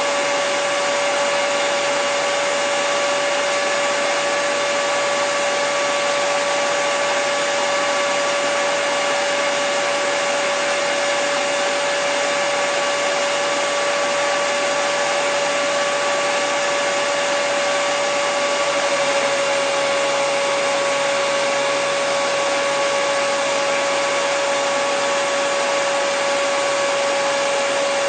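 Hair dryer running steadily: a constant rush of air with an unchanging motor whine over it.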